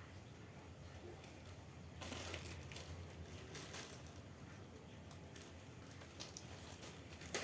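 Faint rustling and crackling, strongest for about two seconds in the middle, with a few scattered clicks over a low steady hum.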